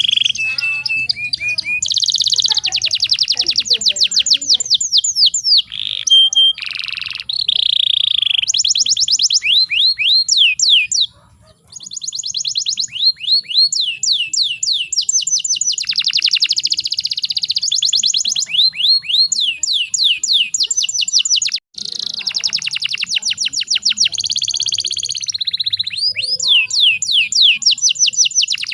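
Canary singing fast trills of rapidly repeated down-sweeping notes, with a couple of brief breaks.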